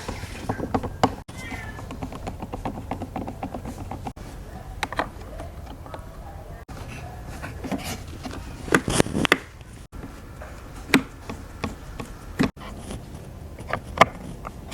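Repeated sharp clicks and taps of small parts and tools being handled, with a quick cluster of knocks about nine seconds in.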